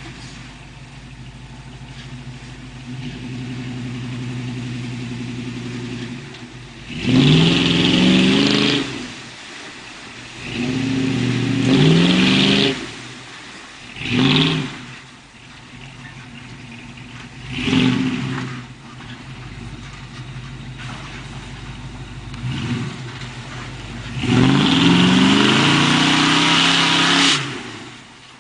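Truck engine idling and revved five times in short bursts. Each rev rises quickly in pitch, holds briefly and drops back to idle; the first and last revs are the longest.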